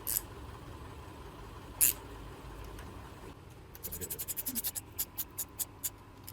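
Hand ratchet wrench clicking as it is swung back and forth while tightening valve cover bolts: a quick run of light clicks that slows as it goes, starting a little past halfway, after two short sharp scrapes earlier on.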